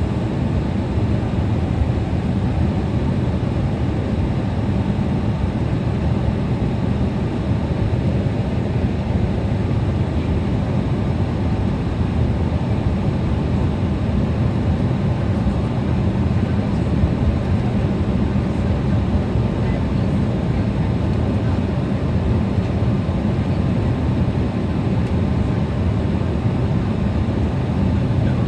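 Steady low rumble inside an airliner cabin: the jet engines and cabin air running while the aircraft taxis, with no distinct events.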